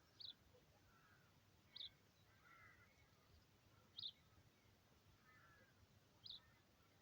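Faint bird calls: a short, high call repeated four times, about every two seconds, with softer, lower twittering between.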